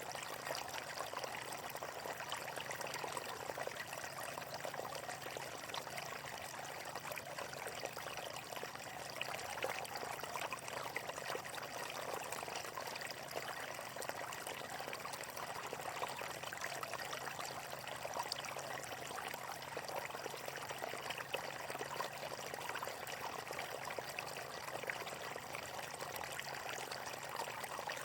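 Water flowing steadily in a stream, a continuous splashing and trickling.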